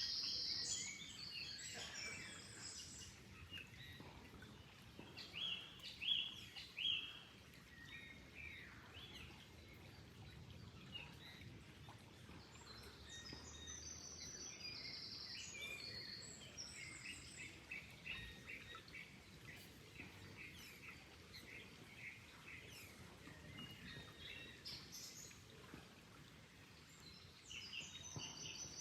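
Several songbirds chirping and calling in quick repeated notes over a faint steady hiss. The calls come in clusters, the loudest about six seconds in, with a busy stretch from about fifteen to twenty-five seconds.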